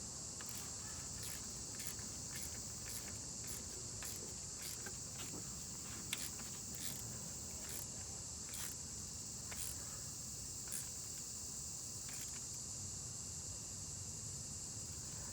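Insects chirring steadily in a high, even band, with scattered light clicks on top, the sharpest about six seconds in.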